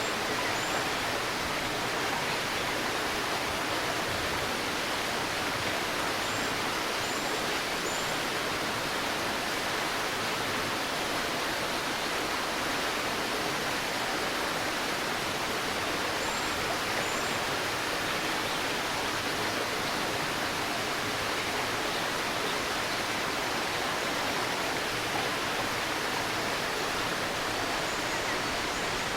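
Shallow river murmuring steadily over stones. Faint short bird chirps come high above it a few times: near the start, around a quarter of the way in, about halfway, and near the end.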